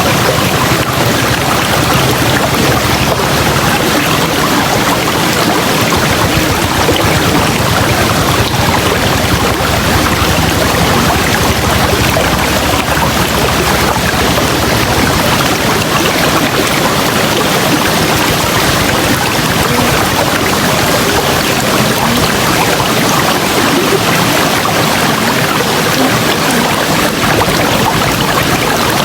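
River water rushing steadily over rocks, a constant loud flow.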